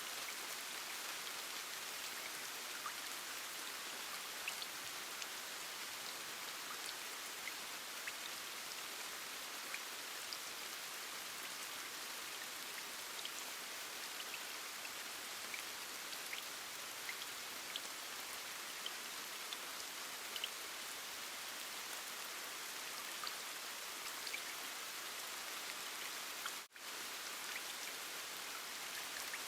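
Steady rain ambience: an even hiss of falling rain with scattered individual drop ticks, cutting out for a split second about 27 seconds in.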